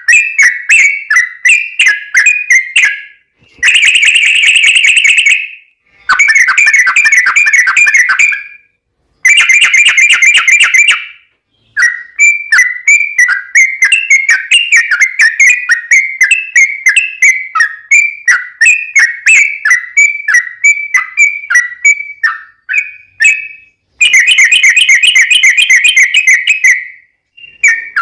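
Yellow-vented bulbul (trucukan) singing loudly: bubbly whistled notes a few per second, broken four times by long rapid trills (the 'ropel') with short pauses between phrases.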